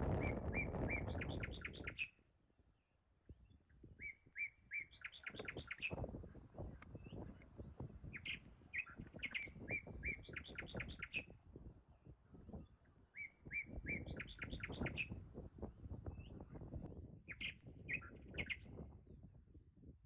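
A songbird singing, repeating short phrases of quick notes every few seconds, with faint rustling and clicking underneath. A low rushing noise cuts off about two seconds in.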